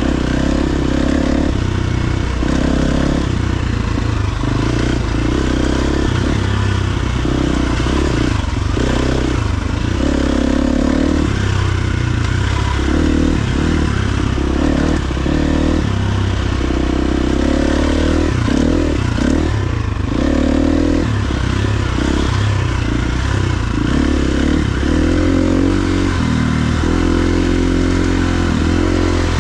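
KTM 350 XC-F dirt bike's single-cylinder four-stroke engine running under way, its pitch rising and falling over and over as the throttle opens and closes.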